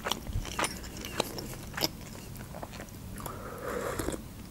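Close-miked mouth sounds of chewing a mouthful of Adjarian khachapuri, with wet clicks every half second or so. About three seconds in comes a sip from a mug lasting about a second.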